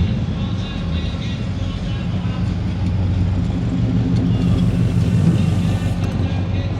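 Car engine running close by as a car pulls out and drives off, its rumble growing louder about two-thirds of the way through and then easing.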